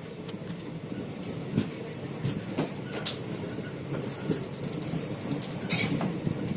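Pune–Bhubaneswar superfast express train rolling on the track: a steady rumble with sharp clacks of wheels over rail joints, growing gradually louder.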